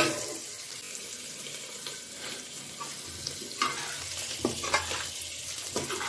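Spiced vegetable gravy sizzling gently in a steel kadai on a gas stove, a steady hiss. A sharp metal clank of steel cookware at the very start, then a few light clinks and scrapes of utensils against the pots.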